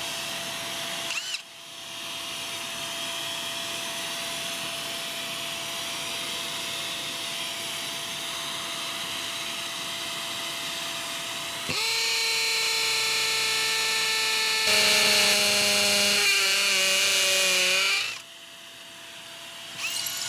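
Ryobi One+ 18V brushless hammer drill hammer-drilling a 5/32-inch masonry bit into a concrete floor, running steadily with a short break about a second and a half in. About 12 seconds in it gets louder with a clear motor whine that shifts in pitch, then it cuts back sharply about 18 seconds in.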